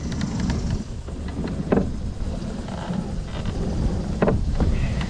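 Wind rumbling on the microphone aboard a moving kayak, with two brief sharper sounds about two and a half seconds apart.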